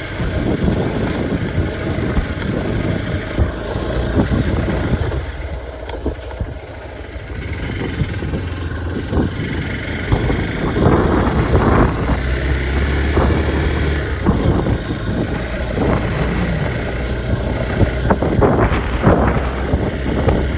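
Hero XPulse 200 4V's single-cylinder engine running as the motorcycle is ridden, with wind buffeting the microphone in irregular gusts that grow stronger in the second half.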